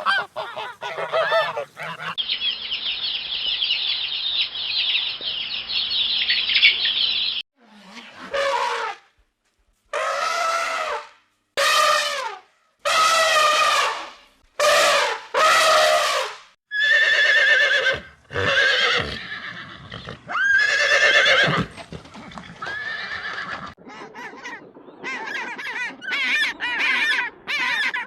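Animal calls: high chattering for about five seconds, then a series of separate loud calls, each about a second long with short gaps between them, and more chattering near the end.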